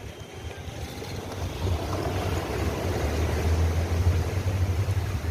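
A boat's engine running with a low rumble and a rushing noise, growing louder over the first two seconds.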